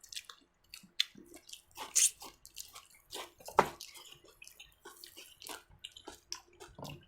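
Eating noises: irregular wet clicks and smacks of chewing close to the microphone, with a couple of sharper clicks.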